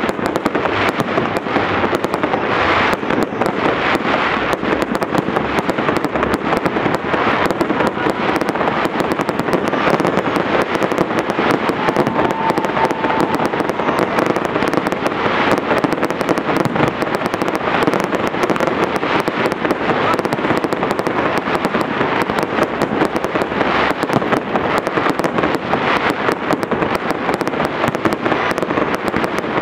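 Fireworks salute display: a dense, unbroken barrage of launches, bangs and crackling bursts.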